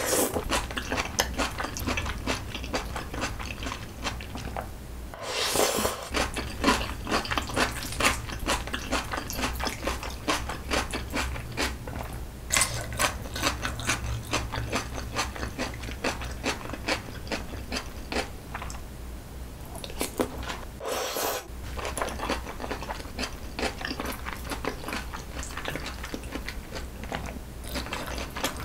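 Close-miked chewing of mouthfuls of jjajangmyeon with squid and vegetables: wet smacks and soft crunches, dense and uneven. Twice there is a longer rushing sound, about five seconds in and again about twenty-one seconds in.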